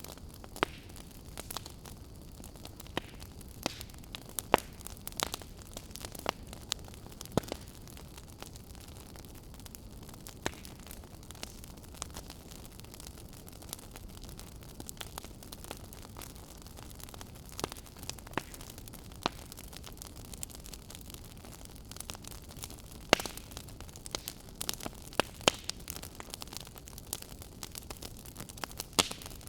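Log fire crackling in a fireplace: a steady soft hiss with scattered sharp pops and snaps, which come more often near the end.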